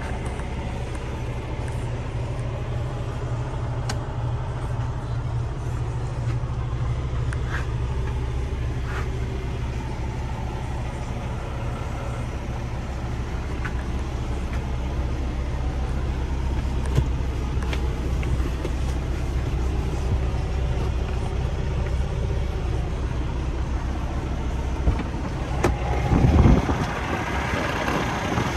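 2015 Freightliner Cascadia's diesel engine idling with a steady low hum, broken by a few louder knocks and a short burst near the end.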